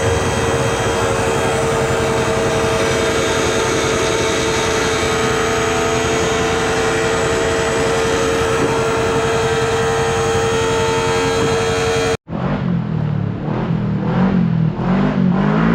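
Truck engine pulling under load at a steady speed, with a constant whine over the engine noise. About twelve seconds in it cuts off abruptly to a different recording of an engine whose pitch rises and falls several times.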